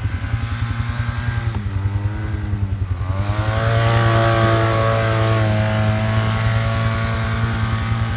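An off-road vehicle engine running with a steady throb. It revs up about three seconds in and holds at the higher speed.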